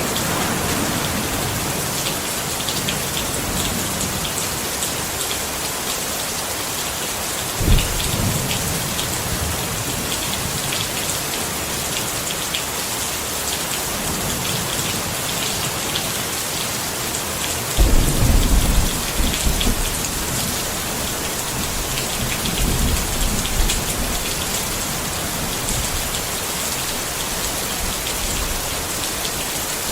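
Steady rain pattering on a tent, with thunder: a sharp clap about eight seconds in, a longer rolling rumble from about eighteen seconds that lasts a couple of seconds, and a weaker rumble a few seconds after that.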